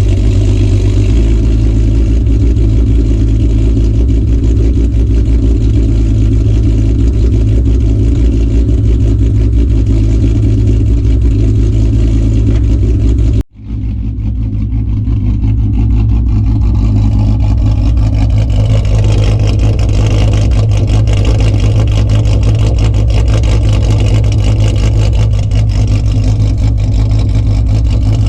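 2008 Ford Mustang's 4.0 V6 running loudly after a winter cold start, its exhaust uncorked by long-tube headers, no catalytic converters, an X-pipe and Cherry Bomb mufflers. The sound cuts out abruptly about halfway through and comes back within a couple of seconds.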